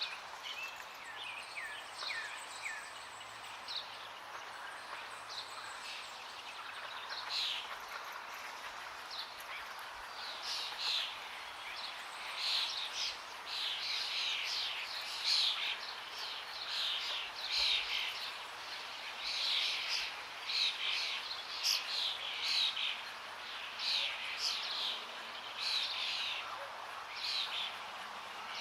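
Forest birds singing over a steady rush of running water. There are a few thin, falling whistles near the start, and after that birds chirp in short bright phrases about once a second.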